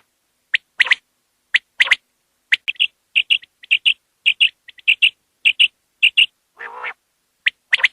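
Common quail calling: short, sharp, clipped notes repeated in quick pairs and triplets, the male's 'wet-my-lips' song. A lower, rougher call comes near the end.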